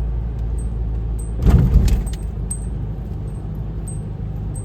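Car on the move, heard inside the cabin: a steady low rumble of engine and road. A brief clattering rattle comes about a second and a half in, and a faint tick repeats about every two-thirds of a second.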